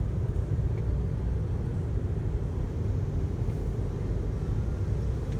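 Steady low rumble of a car, even and unbroken.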